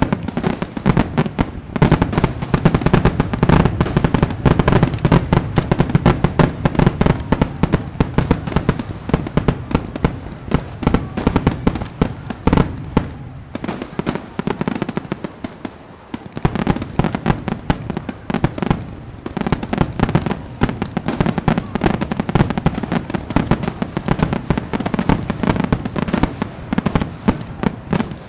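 Fireworks display: a dense run of bangs and crackling, thinning out for a few seconds about halfway through before building back up.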